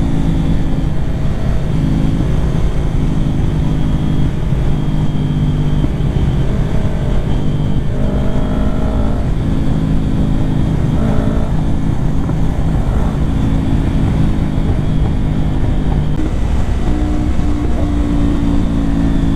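Kawasaki Ninja 400's parallel-twin engine running at a steady cruise, its pitch shifting a little now and then.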